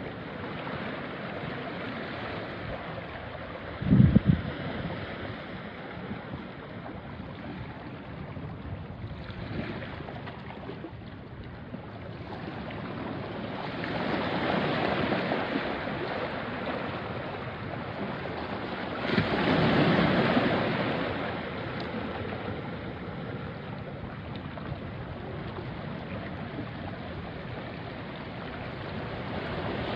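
Small sea waves washing onto a rocky shore in a steady wash, with two larger waves swelling in and breaking around the middle. About four seconds in there is a single brief low thump, the loudest moment.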